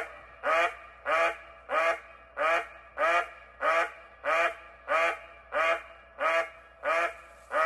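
A bird's short call repeated steadily, about one and a half times a second, every call the same.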